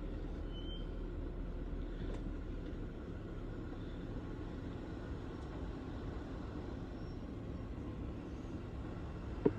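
Jeep engine running low and steady at crawling pace, with a single short click near the end.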